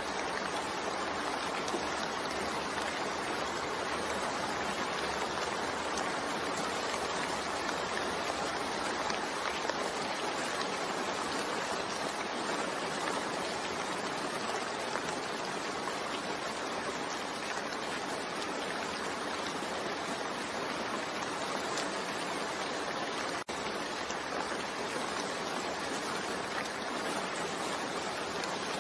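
Steady, even rain falling, with a momentary break in the sound about two-thirds of the way through.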